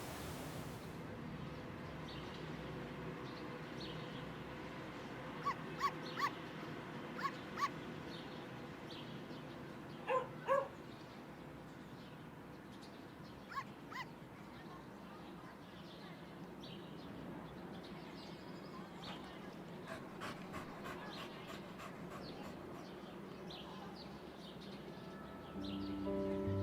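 Dogs whimpering and yelping in short high cries, a quick run of them about five seconds in, then a pair a few seconds later and a couple more after that, over a steady low rumble.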